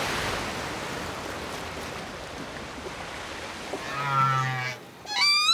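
Whale calls picked up underwater by hydrophone over a steady wash of sea noise: a moaning call about four seconds in, then a louder call near the end that rises in pitch.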